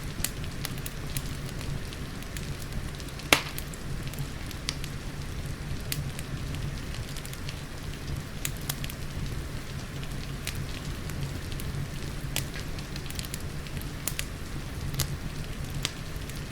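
Wood fire in a fireplace crackling with scattered sharp pops, one much louder pop about three seconds in, over a steady hiss and low rumble of rain.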